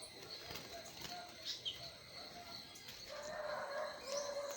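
Faint bird calls: a few short low notes, a brief high chirp about a second and a half in, and a longer low note near the end.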